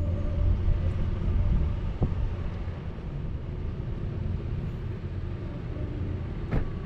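Vehicle engine running steadily under a low road rumble, with a short click about two seconds in and another near the end.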